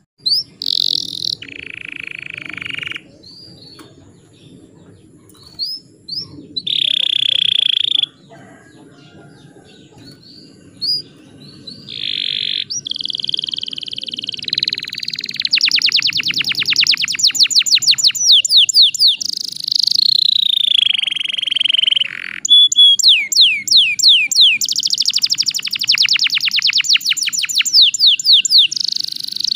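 Domestic canary singing. Short separate buzzy phrases come first, then from about halfway it runs into continuous rapid trills of repeated high notes, broken by one long falling note.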